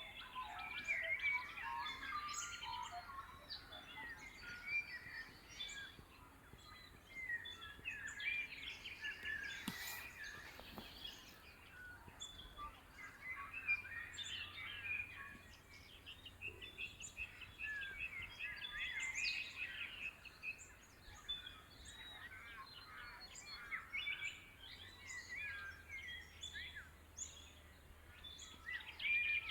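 Dawn chorus in eucalypt woodland: many birds chirping and trilling at once, overlapping calls throughout, with a single brief click about ten seconds in.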